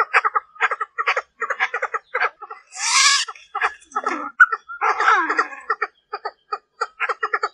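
Female Chinese francolin (partridge) calling, as used to lure males: a fast series of short clucking notes, about four a second. A harsher, hissy note comes about three seconds in, and a denser chattering run follows around five seconds.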